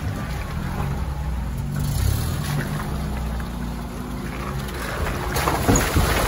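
Lada Niva engine running at low, steady revs while driving off-road, with a rushing, splashing noise of water and mud building from about five seconds in.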